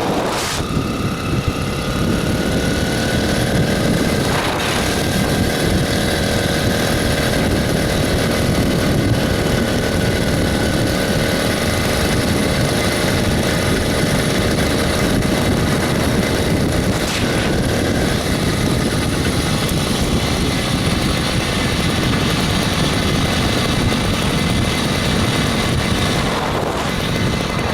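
The 66cc two-stroke engine of a motorized bicycle running steadily under way, its pitch holding nearly even, with heavy wind noise on the microphone. A few brief knocks cut through near the start, about four seconds in, and again after seventeen seconds.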